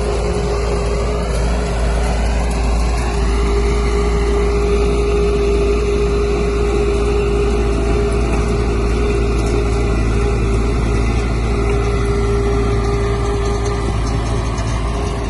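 Heavy earthmoving machine's diesel engine running steadily, with a whining tone that rises over the first few seconds.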